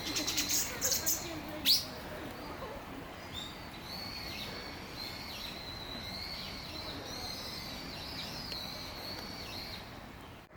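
High, wavering bird chirping, with a quick run of clicks and one sharp rising squeak in the first two seconds.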